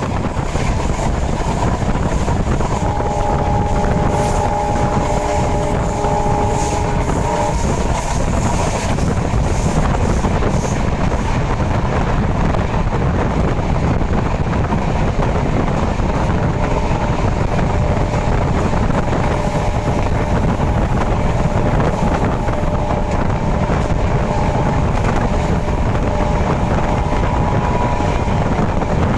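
Train running: a loud, steady low rumble, with a faint steady chord of several tones from about three to seven seconds in, returning more faintly later.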